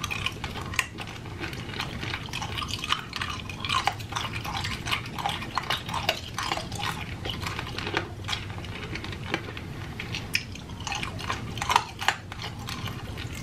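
Close-miked mouth sounds of someone sucking and chewing a hard candy cane: a steady run of small wet clicks, smacks and slurps.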